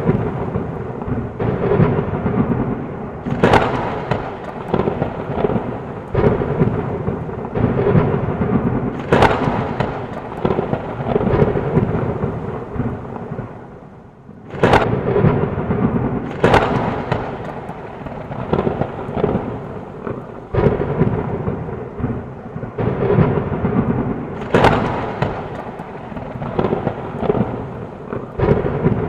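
Heavy rain with continuous rolling thunder, and several sharp thunderclaps cracking through, the loudest after a brief lull about halfway in.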